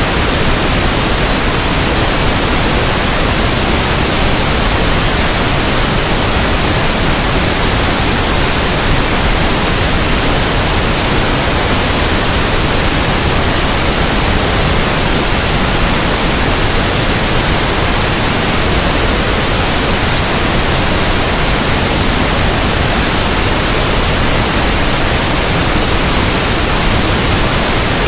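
Steady, unbroken pink noise: an even hiss across the whole range, level and unchanging.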